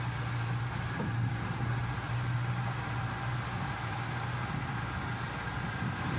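A small engine running steadily at low speed aboard a boat, a constant hum with no change in pitch.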